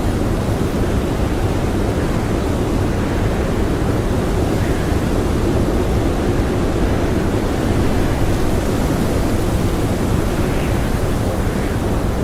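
Strong blizzard wind blowing steadily, a loud deep rushing noise, with a faint higher howl rising briefly near the end.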